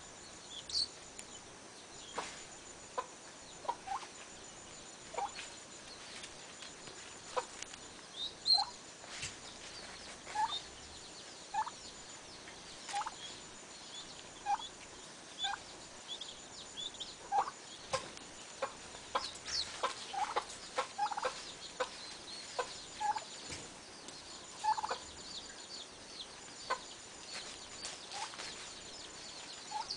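Birds calling: many short chirps about a second apart, some dropping in pitch, over a faint steady hiss, with a high, thin trill repeating in stretches.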